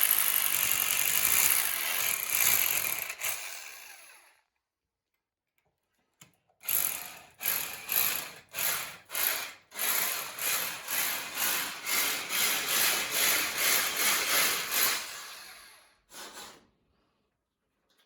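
Small power drill drilling into a concrete basement wall, used gently rather than aggressively. It runs steadily, spins down about four seconds in, then after a pause restarts in short trigger pulses about two a second that merge into a steadier run before spinning down, with one brief last burst.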